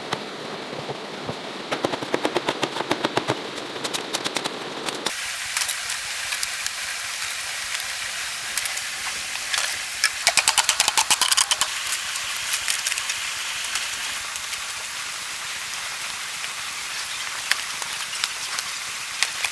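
Steady rain, with two bursts of rapid sharp clicking or tapping, each a second or more long, near the start and in the middle.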